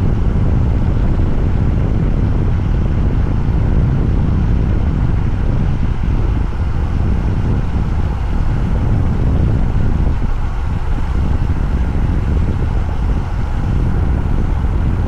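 Motorcycle on the move: a steady, loud low rumble of wind and engine on the microphone, holding an even pace with no clear revving.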